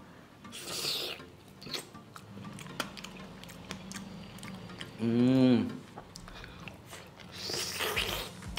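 A person eating meat off a mutton marrow bone: wet chewing and mouth clicks, with two airy sucking sounds near the start and near the end. A short hum about five seconds in.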